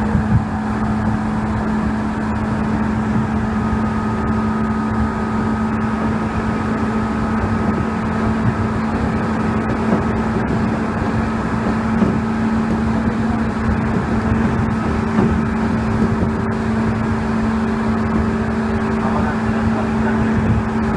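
Seibu 2000 series electric train running, heard from inside the car: a steady rumble with a constant hum, a higher whine that comes in for a while, and a few short knocks. This is the train's normal running sound, with no abnormal noise.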